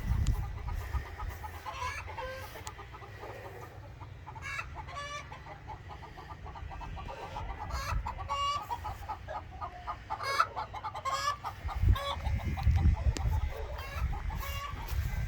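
Chickens clucking, many short calls on and off throughout, with a low rumble near the start and again in the last few seconds.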